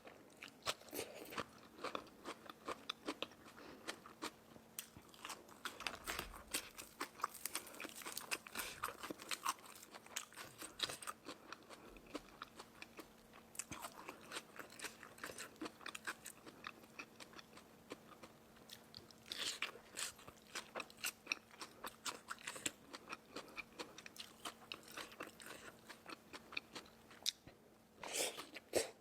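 Close-up chewing and biting of crispy food: rapid crunches in clusters, with louder bursts of bites now and then.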